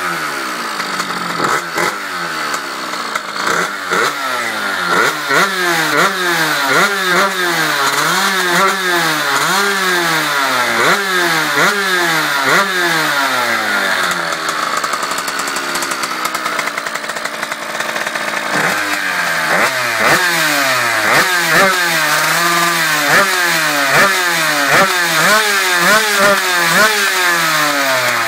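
Late-type KX080 engine of a Chinese-made buggy running just after starting, the throttle blipped over and over so the pitch rises and falls about once a second. Around the middle it settles to a steadier, lower run for a few seconds before the revving resumes.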